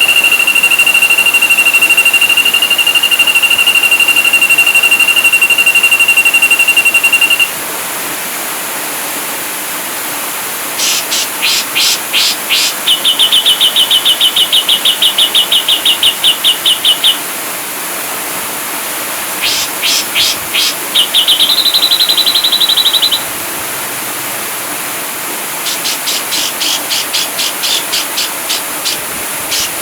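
Ashy drongo singing: one long, steady high whistle held for about seven seconds, then bursts of rapid clipped notes and fast buzzy trills, over a steady hiss.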